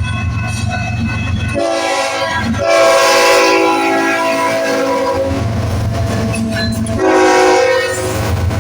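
Diesel freight locomotive's chord horn blowing a long blast that starts about a second and a half in and swells a second later, then a shorter blast near the end. Under it runs the steady low rumble of the diesel engines.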